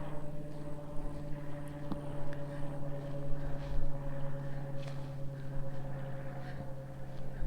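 Steady low motor drone with a few overtones, sinking very slightly in pitch, with a few faint ticks over it.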